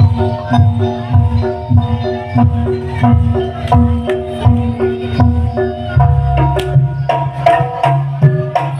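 Jaranan gamelan accompaniment: hand-drum strokes over a quick repeating pattern of tuned metal percussion notes. About six seconds in, a sustained low tone enters and the pattern changes.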